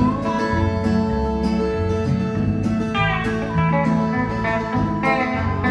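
Country band playing an instrumental passage between sung lines: a guitar lead with sliding notes over a bass line and a steady beat.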